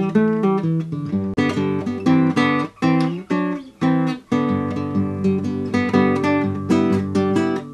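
Theme music played on acoustic guitar: plucked and strummed chords with sharp note attacks at a steady pace.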